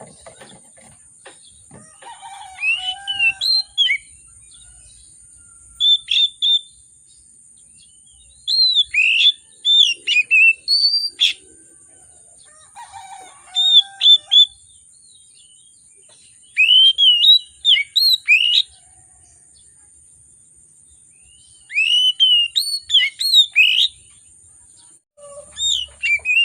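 Oriental magpie-robin (kacer) singing loud bursts of quick, sliding whistled notes, six phrases with short pauses between them.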